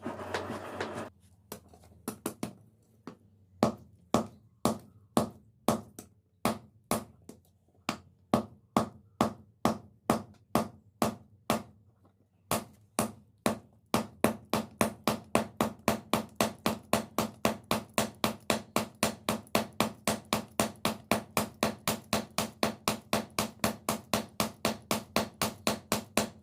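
Hand hammer striking steel on an anvil in a steady forging rhythm, each blow ringing. The blows come about two a second at first, then after a short pause about four a second.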